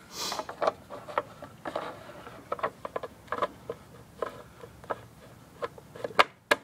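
Irregular light clicks and taps of tools and metal parts being handled, with a short rustle about the first half-second.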